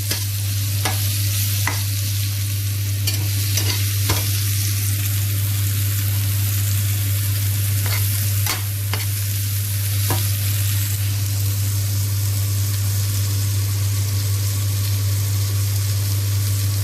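Chopped mushrooms sizzling as they fry in a pan, with scattered taps of a utensil against the pan over roughly the first ten seconds. A steady low hum runs underneath.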